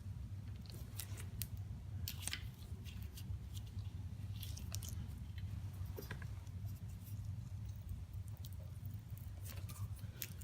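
Hand tap being turned slowly into a drilled-out hole in an aluminum motorcycle frame, giving irregular small clicks and scrapes as it starts cutting new threads, over a steady low hum.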